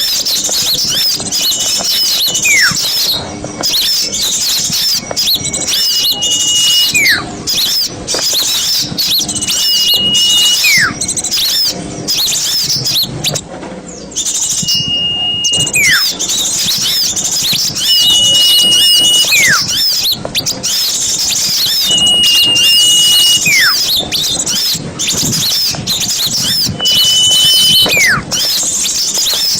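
Recorded small songbirds: a dense, high, unbroken chatter of overlapping calls. Over it, about every four seconds, comes a clear whistle: a held note that ends in a steep falling slur.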